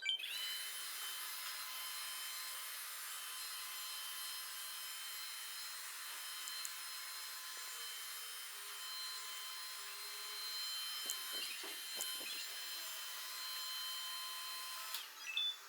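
Robot vacuum cleaners running: a steady whirring with a high motor whine as they drive and vacuum, a few soft knocks about two-thirds of the way through, then the sound cuts off suddenly near the end.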